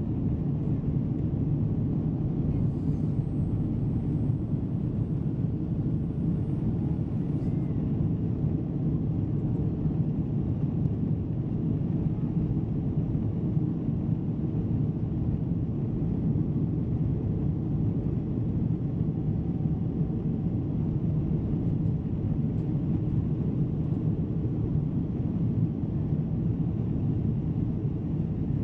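Steady, unbroken drone of a Boeing 777's cabin, the engine and airflow noise heard from a passenger seat, deep and even throughout.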